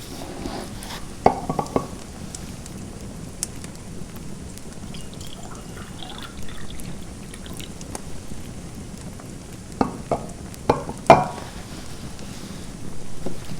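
Fireplace fire crackling over a steady soft hiss, with a few sharp pops about a second in and a louder cluster of pops around ten to eleven seconds in.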